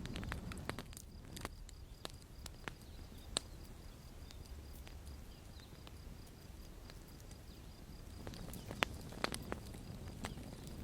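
Campfire crackling: scattered sharp pops and snaps over a low rumble, sparse through the middle and busier near the start and end, with the loudest snap about two seconds before the end.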